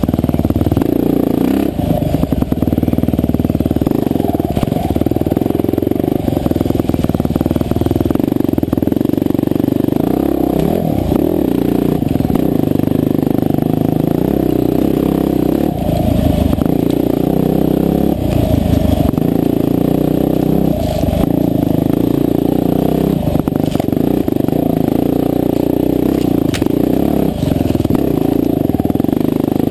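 Husqvarna TE511 dirt bike's single-cylinder four-stroke engine running hard on a rough trail, its revs rising and falling every second or two, with occasional short knocks.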